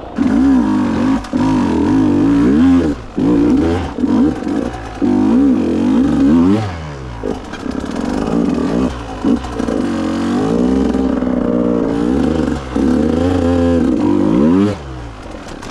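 Two-stroke enduro motorcycle engine revved hard in repeated throttle bursts, its pitch climbing and falling many times with short drops between. The revs fall away near the end.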